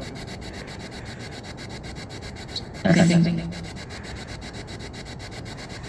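Spirit box sweeping through radio static: a steady hiss broken by rapid, regular ticking, with a short voice-like fragment about three seconds in.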